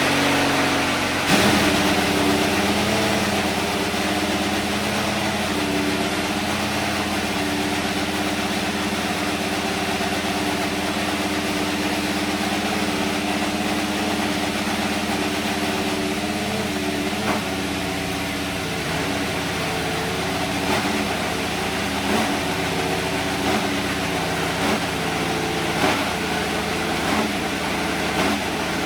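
Haas VF-24 Formula 1 car's Ferrari turbocharged 1.6-litre V6 running at idle just after start-up, with a few brief rises in engine speed in the second half.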